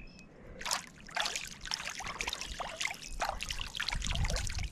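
Creek water splashing and trickling as a large turtle is handled in the water, in quick irregular splashes starting about half a second in.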